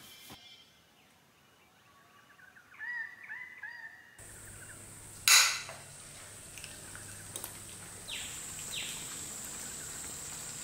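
Birds calling, a short run of quick rising-and-falling notes, over quiet outdoor ambience. A few seconds in the background changes abruptly, with one sharp loud knock, and a steady high-pitched buzz sets in near the end.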